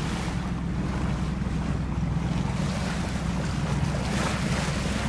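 A boat under way: a steady low engine hum under the rush of water and wind buffeting the microphone.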